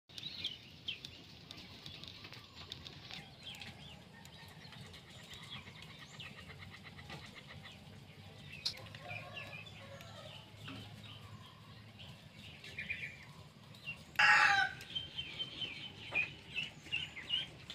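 Birds calling: scattered short chirps throughout, a fast even trill for a few seconds near the start, and one loud, longer call about fourteen seconds in that is the loudest sound.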